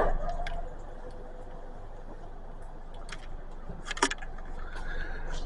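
A few faint clicks and one light knock about four seconds in, over a quiet steady background hiss.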